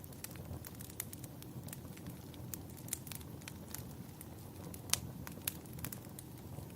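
Wood fire in a fireplace crackling, with irregular sharp pops, the loudest about five seconds in, over a low steady rumble.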